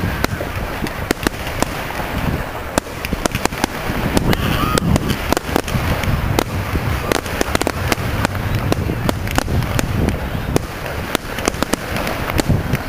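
Fireworks display: a rapid, irregular string of sharp bangs and crackles over a continuous low rumble.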